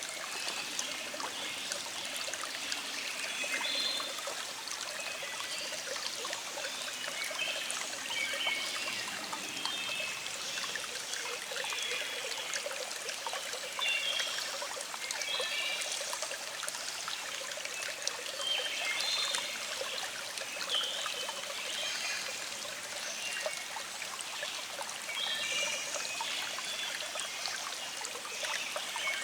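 A small stream trickling and flowing steadily, with birds singing short phrases every couple of seconds.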